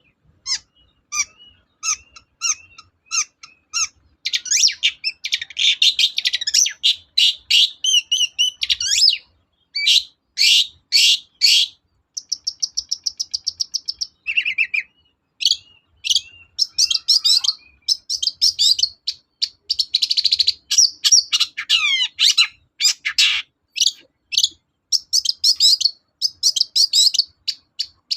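Long-tailed shrike (cendet) singing a fast, varied song of chattering notes, trills and sliding whistles, phrase after phrase with short pauses. This is the lively full song that is played to provoke other shrikes into singing.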